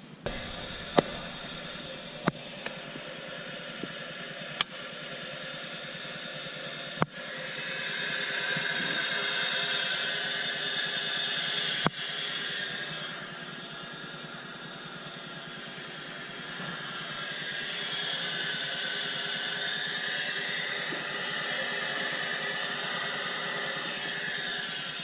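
Compressed air hissing out of the engine during a cylinder leak-down test, growing louder twice, with a few sharp clicks.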